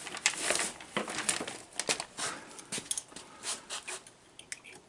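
Pliers and copper wire being handled: irregular clicks, scrapes and rustling that thin out near the end.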